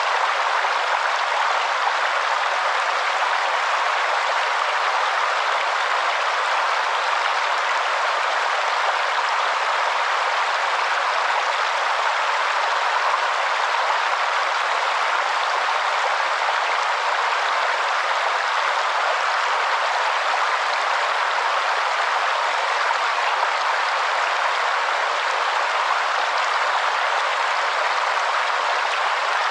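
Waterfall: a steady, unchanging rush of falling water, with no low rumble.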